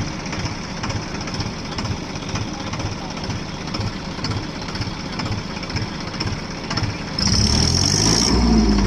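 Diesel tractor engine running with a steady low chugging beat, then revving up about seven seconds in, louder and rising in pitch.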